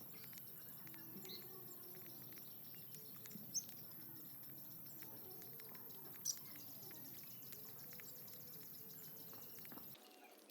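Wild birds chirping with scattered short calls, two of them sharper and louder, about a third and two-thirds of the way through, over a steady high-pitched hiss.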